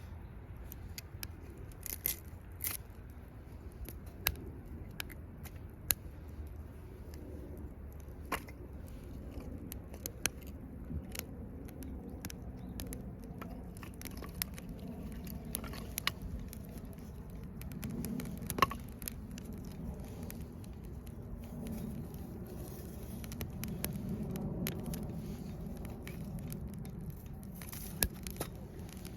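Wood campfire crackling, with scattered sharp pops at irregular intervals over a low steady rumble.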